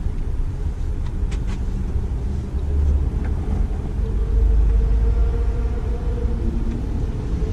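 Steady low rumble of running machinery, with a faint steady hum joining about four seconds in.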